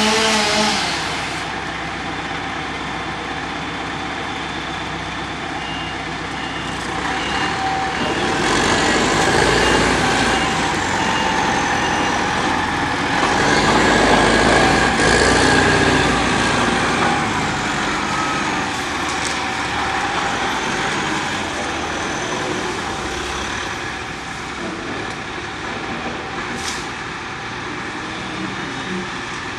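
Heavy work-vehicle engines of a front loader and dump truck running, rising in level twice. A backup alarm beeps steadily for several seconds from about six seconds in.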